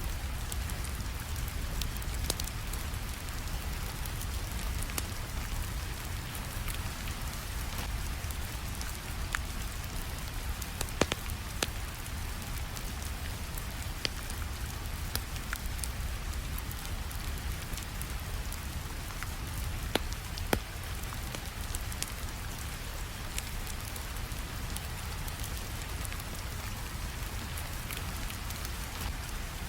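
Steady rain falling, mixed with a crackling wood fire that gives sharp pops every few seconds, a few of them louder than the rest.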